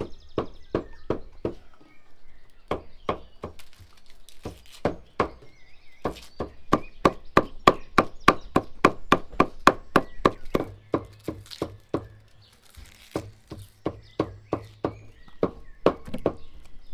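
A heavy cleaver chopping meat on a wooden tree-stump block: a steady run of sharp chops, about three to four a second, loudest and quickest in the middle.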